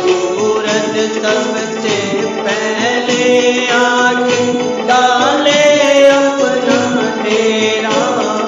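A Hindi film song: a singing voice over instrumental accompaniment with a steady percussion beat.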